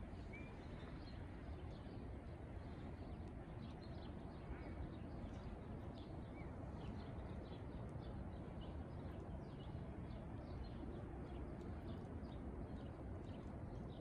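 Small birds chirping, many short high chirps that come thicker in the second half, with a few short pitched calls, over a steady low background rumble.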